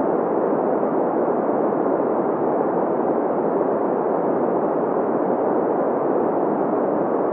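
Green noise: a steady, even hiss weighted toward the middle frequencies, with little deep bass and little high treble.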